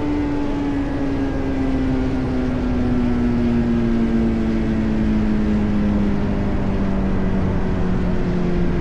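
Honda CBR sport motorcycle engine running at speed, its note falling slowly and steadily in pitch as the bike eases off, over constant wind and road noise.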